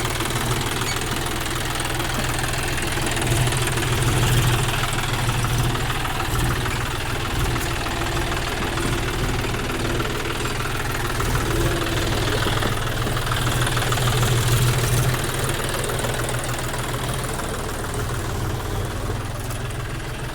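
John Deere 5050D tractor's three-cylinder diesel engine running steadily with rapid, even firing pulses, swelling a little in loudness twice.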